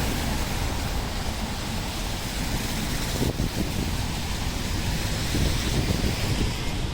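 Steady city street noise in the rain: traffic and falling rain, with wind rumbling on the microphone.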